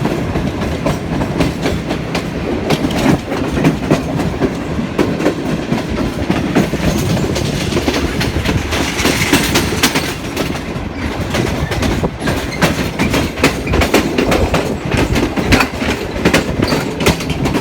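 Passenger train running, its wheels clattering over rail joints and points in a dense, uneven run of clicks over a steady rumble.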